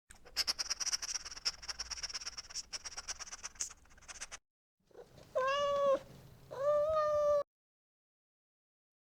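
A rapid crackle of clicks and rustling for about four seconds, then a domestic cat meows twice, each call short and held at a fairly level pitch.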